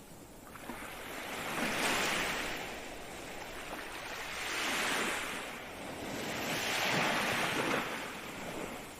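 Ocean waves breaking and washing up on shore, three swelling surges of surf that rise and fall in turn, peaking about two, five and seven seconds in.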